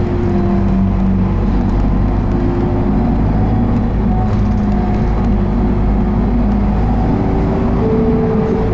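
Isuzu Erga route bus heard from inside the cabin, its diesel engine and drivetrain running in a steady low drone that shifts slightly in pitch near the end.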